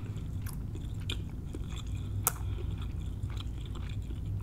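Close-miked chewing of a mouthful of crab fried rice, with small wet mouth clicks and one sharper click about two seconds in.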